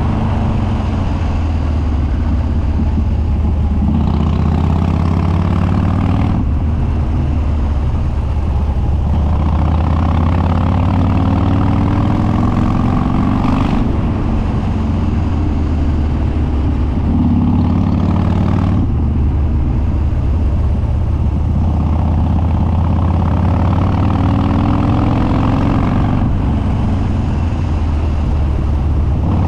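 Harley-Davidson Dyna Street Bob's Twin Cam V-twin running through a custom upswept dual exhaust with no baffles, pitch rising and falling with the throttle. Brief breaks in the note every five to seven seconds, at about six, fourteen, nineteen and twenty-six seconds in, where the rider backs off or shifts.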